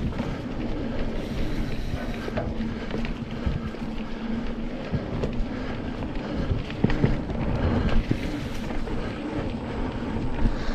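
Mountain bike rolling along a dirt trail: steady tyre rumble and rattling over bumps, with wind buffeting the microphone. A few sharper knocks, the loudest about seven to eight seconds in.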